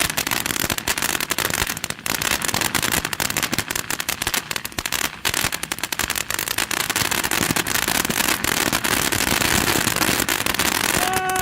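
Winda Fireworks 'Race Car' ground fountain burning with a dense, continuous crackle of rapid pops.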